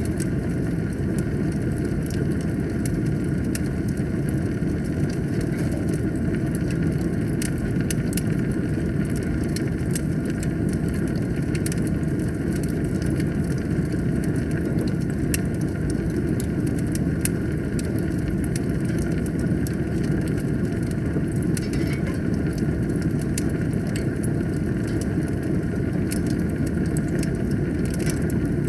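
Wood fire burning in a fireplace: a steady low noise of the flames with many small sharp crackles and pops scattered throughout.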